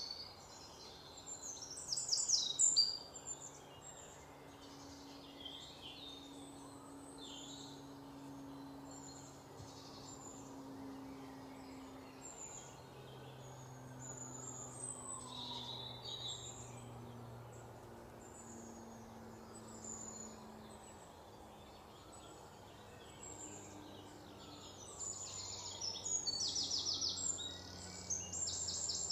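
Birds chirping and singing, with bursts of rapid trilling about two seconds in and again near the end, over a faint low steady hum.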